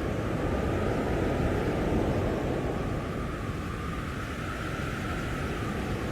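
Blizzard wind blowing hard and steadily, with a rushing rumble and a faint wavering howl, swelling a little about two seconds in.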